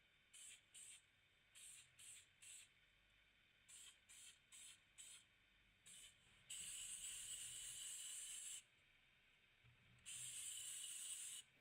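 Aerosol can of primer spraying in about ten short hissing puffs, then two longer sprays of a couple of seconds each.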